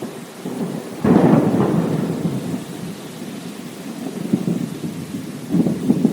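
Steady rainfall with thunder. A loud crackling rumble breaks in suddenly about a second in and fades over a few seconds, and another burst of rumbling comes near the end.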